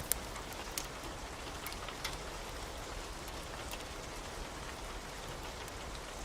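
Steady pouring rain, an even hiss with scattered sharp drop taps.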